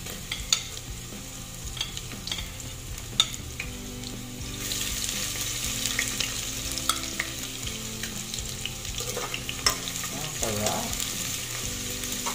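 Sliced garlic and ginger frying in hot sunflower oil in a metal pot, sizzling steadily, with sharp clicks of a spatula against the pot as they are stirred. The sizzle grows louder about four and a half seconds in.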